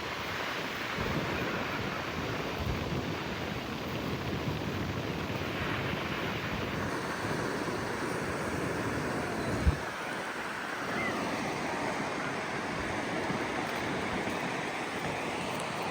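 Ocean surf washing steadily on the beach, with wind buffeting the microphone and one brief thump about two-thirds of the way through.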